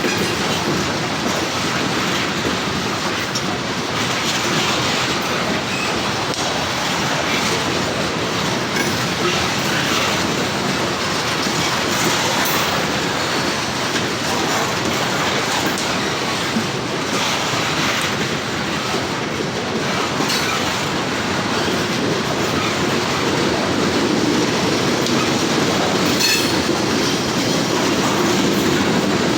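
A CSX freight train rolling past steadily, its cars' wheels clattering over the rails.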